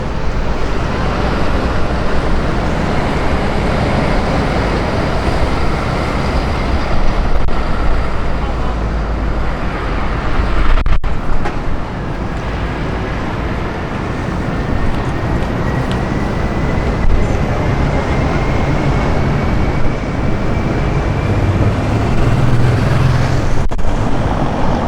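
City street ambience: road traffic passing, with gusty wind buffeting the microphone as a low rumble. A faint whine slowly rises in pitch through the second half.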